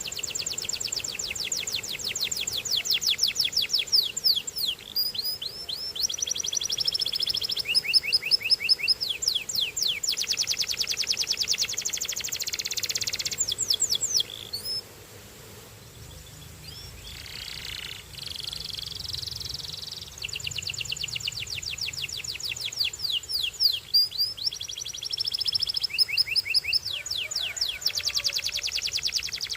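Canary singing: fast trills of rapidly repeated notes, with a new phrase every second or two. The song drops to a quieter stretch about halfway through, then resumes.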